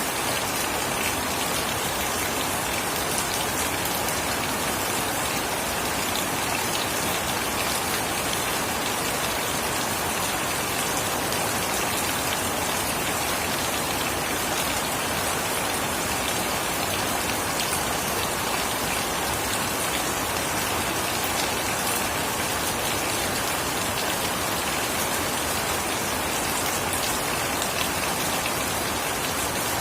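Steady rain falling, a dense even hiss full of fine drop ticks, without thunder.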